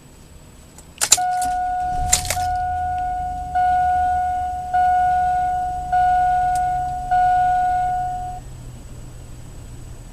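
Two sharp clicks, then a 2002 Chevy Avalanche's dashboard warning chime dinging steadily, re-struck about every second and a quarter, six times before stopping, over a low rumble.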